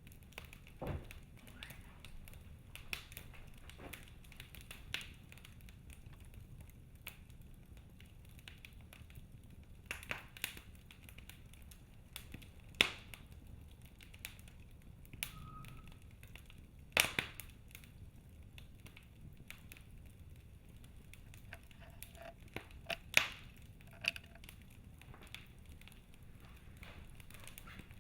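Wood fire burning in a fireplace: a low steady rumble under irregular crackling, with a handful of sharp, louder pops scattered through.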